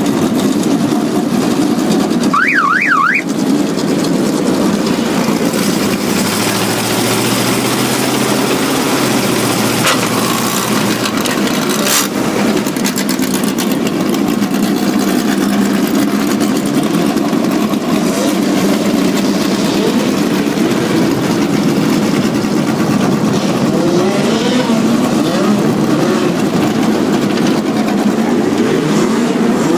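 Race car engines running loudly and steadily, with rising revs from engines accelerating near the end. A brief warbling tone sweeps up and down three times about two and a half seconds in.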